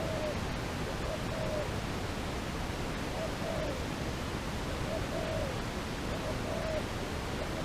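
Dove cooing: short, low coos repeated about every second and a half, over a steady hiss.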